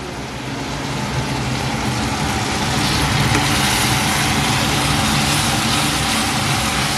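Onion-tomato masala with ginger and garlic sizzling as it fries in a steel pan, over a steady low hum. The sizzle builds over the first couple of seconds, then holds.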